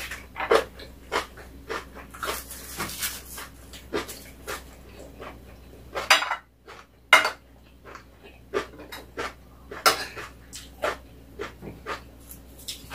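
Close-up eating sounds: a person chewing and smacking their lips, irregular sharp wet clicks a few times a second, with cutlery now and then clinking on plates.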